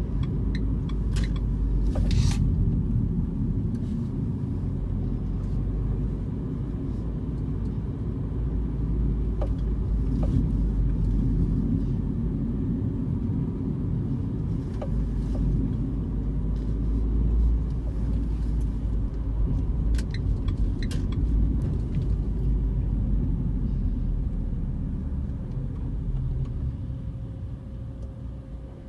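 Renault Clio RS running with a steady low rumble, with occasional sharp knocks, some in quick clusters, of the kind the owner is trying to capture. The rumble dies down over the last few seconds.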